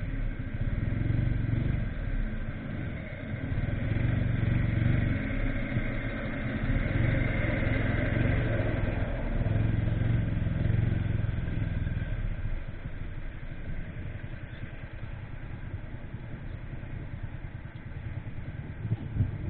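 Motorcycle engine running with road and wind noise while riding. Quieter from about twelve seconds in.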